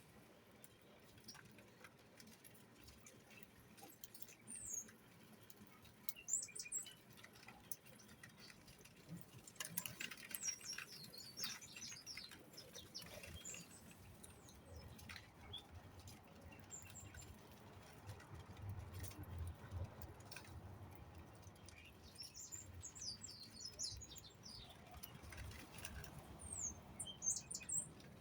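Small birds giving short, high chirps that slide downward, in scattered groups, with light clicks and taps among them.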